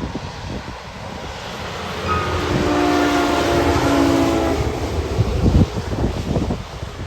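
A semi-trailer truck's air horn sounds a chord of several steady tones for about two and a half seconds as the truck passes, over the rush of its engine and tyres, which swells to its loudest just after the horn stops.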